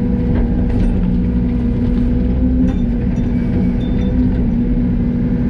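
Yanmar ViO80 excavator's diesel engine running steadily, a constant-pitch drone.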